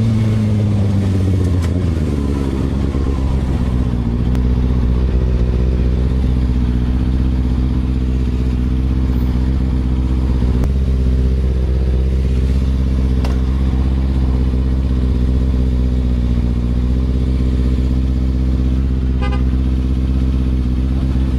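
Kawasaki ZX-6R inline-four engine idling; its revs drop over the first two seconds, then it holds a steady idle.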